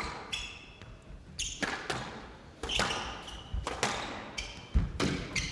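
Squash rally: the ball sharply struck by rackets and cracking off the court walls about once a second, with short high squeaks between the hits.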